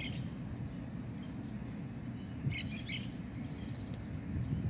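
A songbird chirping: a quick run of high notes at the start and another about two and a half seconds in, over a steady low rumble.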